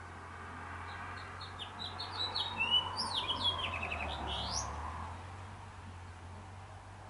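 A bird calling: a quick jumble of high chirps, a short fast trill and rising whistles, lasting about three and a half seconds and starting about a second in.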